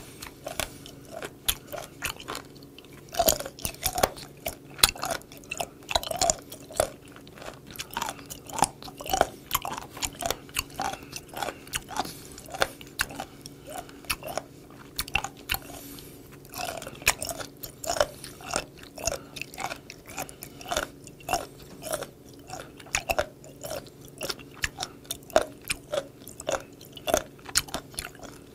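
Close-miked crunchy chewing of raw seafood (sea cucumber and skate nose cartilage): a steady run of crisp, crunchy chews, about two a second.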